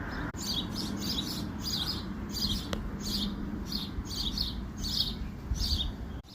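A small songbird chirping repeatedly, about two short high chirps a second, over a low rumble of wind.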